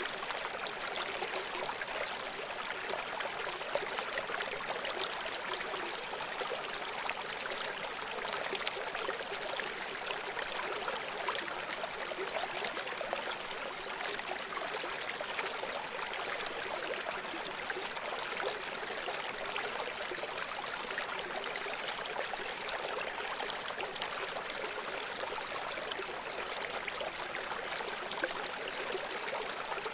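A small stream running over stones, a steady rushing and trickling with constant fine splashing.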